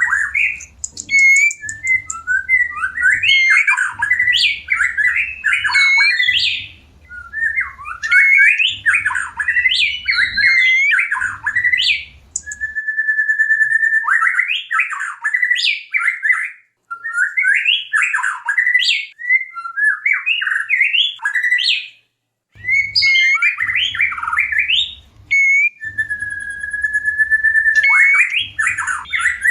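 White-rumped shama (murai batu) singing in breeding condition: fast, varied phrases of whistles, warbles and harsh notes with brief pauses. Twice it holds a long, steady whistled note.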